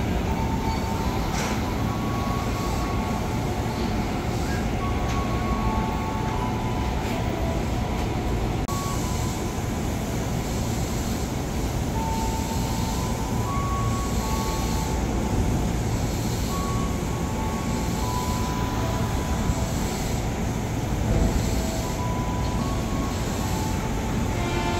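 KRL electric commuter train standing at a station platform, its on-board equipment running with a steady hum and rumble, with short high tones coming and going at a few pitches.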